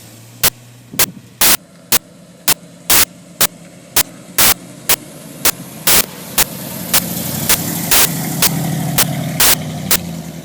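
Car engine idling, its low hum swelling after about six seconds, with sharp, evenly spaced clicks about twice a second.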